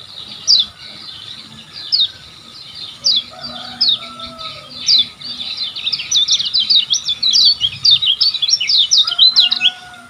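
Kecial kuning white-eye singing high, sharp down-slurred chirps, a few spaced notes at first, then a fast, rapid-fire run of chirps over the second half.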